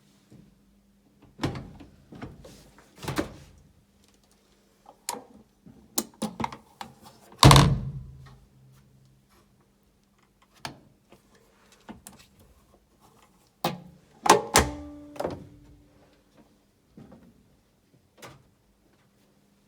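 A washing machine being handled, giving a series of irregular knocks and clicks. The loudest is a heavy thud about seven and a half seconds in, with another cluster of knocks near fourteen seconds, over a faint steady hum.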